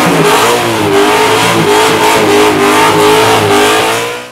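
Supercharged engine of a Holden Commodore ute held at high revs through a burnout, the pitch wavering up and down as the throttle is worked. It fades out at the end.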